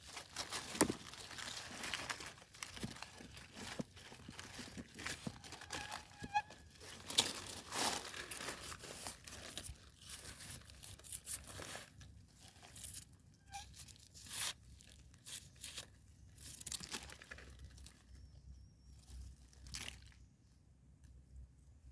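Dry leaf litter and twigs crunching and rustling under hands picking termite mushrooms from the ground, in irregular crackles that thin out over the last few seconds.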